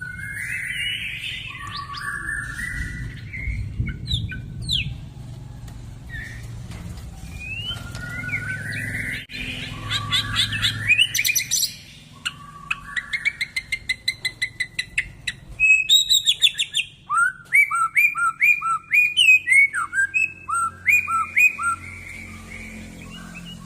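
White-rumped shama singing a loud, varied song: whistled glides and trills, fast runs of repeated notes, then a series of short slurred whistles repeated about twice a second in the second half.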